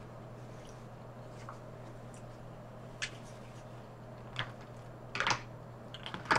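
A person eating, with a few short, soft mouth smacks and clicks while chewing and biting off pieces of shrimp. A steady low hum runs underneath.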